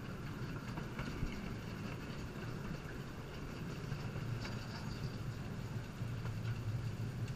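Narrow gauge passenger train rolling along the track, heard from an open passenger car: a steady low rumble with a few faint clicks.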